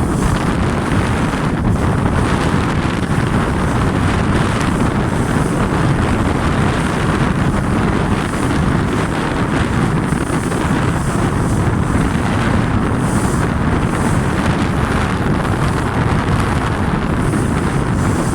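Strong wind buffeting the microphone over water rushing past the hull of an RS Tera Pro sailing dinghy running downwind, a loud, steady rush with no letup.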